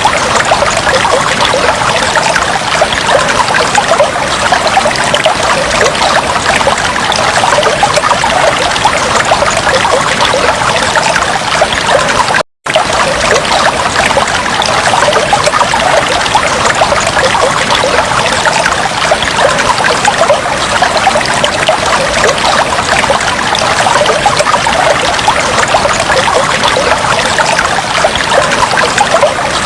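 Fish tank water trickling and bubbling steadily, a dense stream of small splashes and bubble pops. It cuts out for a split second about twelve seconds in.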